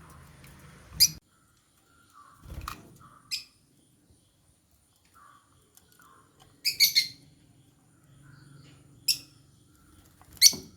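Lovebirds chirping: short, sharp, high chirps a few seconds apart, with a quick run of several about two-thirds of the way through, and softer calls in between. A couple of dull knocks sound among them.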